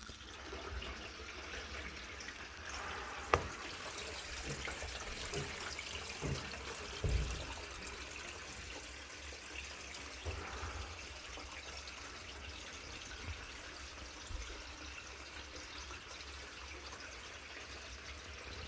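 Water trickling and dripping, with a sharp click a little over three seconds in and a few low knocks.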